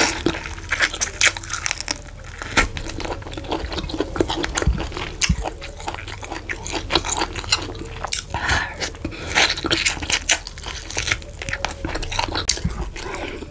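Close-miked chewing and wet mouth smacking from eating fufu and vegetable soup by hand, with a dense run of sharp clicks and smacks throughout.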